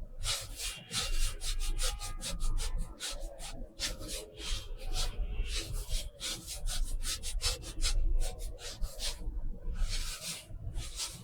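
Paintbrush brushing across watercolor paper in short, scratchy strokes, several a second, with a couple of brief pauses.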